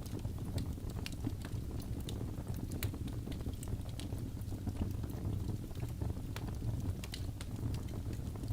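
Wood logs burning in a fireplace: a steady low rumble of flame with many small, sharp crackles and pops, several a second.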